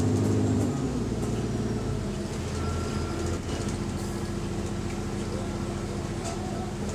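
Diesel engine of a London bus heard from inside. Its note drops about a second in and then runs on steadily at a lower pitch.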